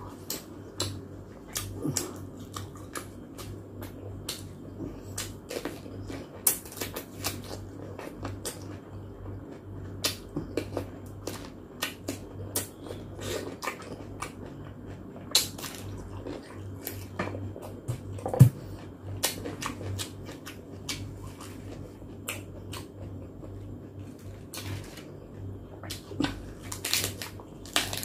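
A person eating close to the microphone: chewing with irregular wet lip-smacks and mouth clicks, one louder smack about two-thirds of the way through, over a faint steady low hum.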